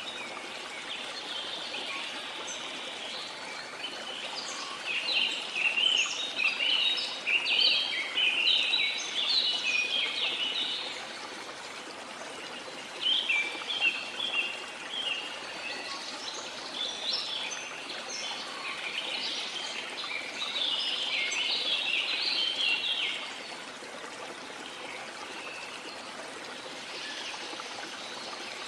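Small birds singing in quick chirping phrases over a steady rush of water; the song comes in three bouts and drops away near the end, leaving only the water.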